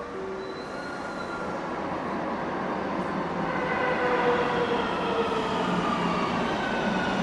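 Subway train approaching and growing steadily louder: a rumble with several whining, squealing tones from the wheels and motors that slide slowly down in pitch.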